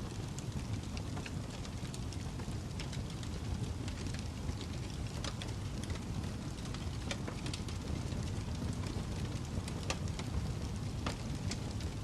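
Fireplace fire crackling: a steady low rumble from the flames, with many irregular sharp snaps and pops.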